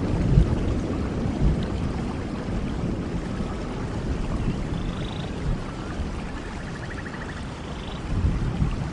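Steady rainfall with a low rumble of distant thunder that dies away over the first second and swells briefly again near the end. A few faint short calls sound over the rain in the middle.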